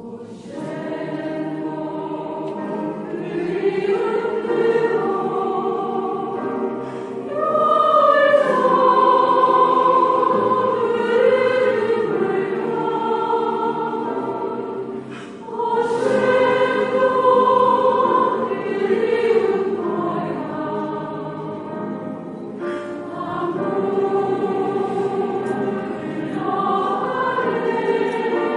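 Women's voices of a choir singing a flowing melody in long phrases, with a brief break about fifteen seconds in before the next phrase.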